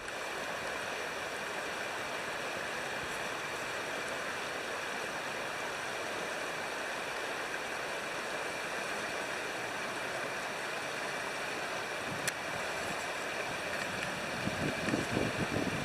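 Nakatsu River flowing over its bed, a steady rushing of water. A single sharp click about twelve seconds in, and wind buffeting the microphone near the end.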